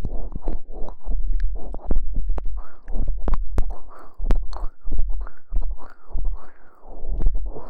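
Close-miked ASMR rustling and rubbing: dense crackling with many sharp clicks and repeated swishing strokes, over a low rumble.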